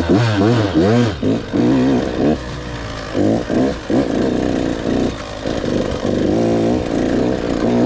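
A KTM 85 BigWheel's two-stroke single-cylinder engine revving repeatedly as the bike is ridden: the pitch climbs and falls over and over, with short drops each time the throttle is let off.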